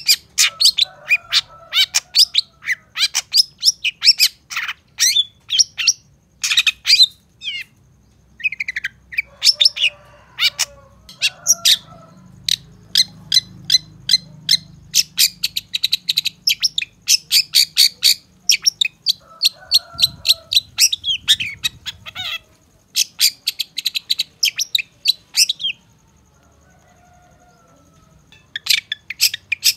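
Long-tailed shrike (cendet) singing: rapid runs of sharp, high chirps, several a second. The runs break off briefly and fall silent for a few seconds near the end, then start again.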